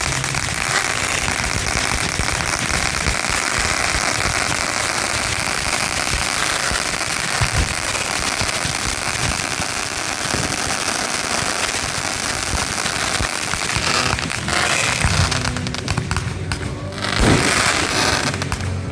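Fireworks going off: a dense, continuous crackle through most of it, with a few low booms, one about seven seconds in and another near the end, where the crackle breaks up.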